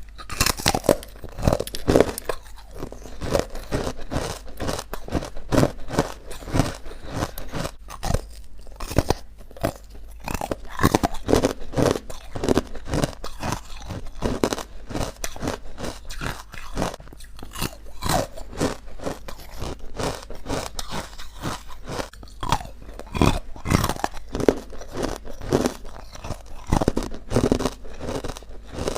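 Chalky, powdery white ice bites being bitten and chewed close to the microphone: continuous crunching, with many sharp crackles tumbling over each other.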